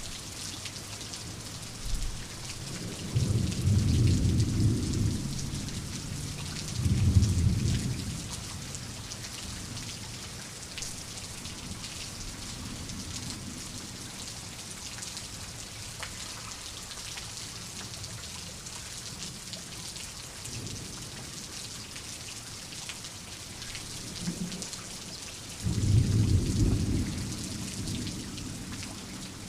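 Steady heavy rain with rolling thunder: deep rumbles a few seconds in, again around seven seconds, and once more near the end.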